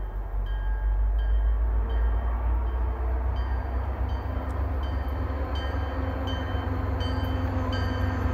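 MBTA commuter rail diesel locomotive approaching with a low rumble that grows louder. A bell rings over it, about one and a half strikes a second.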